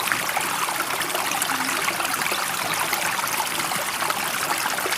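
Steady running water with a fine trickling, bubbling texture, even in level with no swells.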